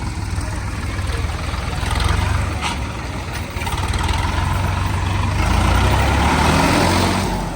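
A heavy diesel engine running steadily, swelling louder for a couple of seconds near the end.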